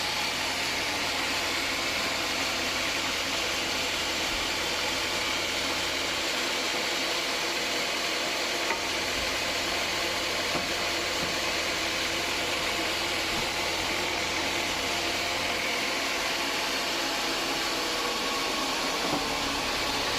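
Homemade band sawmill running steadily: an even hiss over a low motor hum, unbroken throughout.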